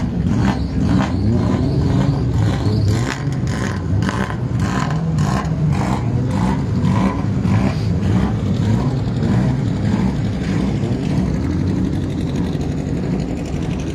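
Small two-cylinder car engine running at a steady idle close by. Regular sharp clicks come about twice a second over it and die away after about eight seconds.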